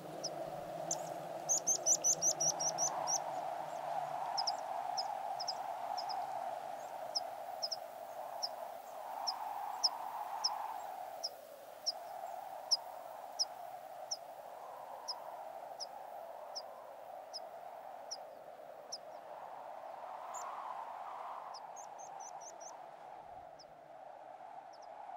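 A small bird calling, a short high note repeated over and over, with a quick rapid trill about two seconds in and again near the end. Beneath it runs a steady mid-pitched drone of wind that swells and fades.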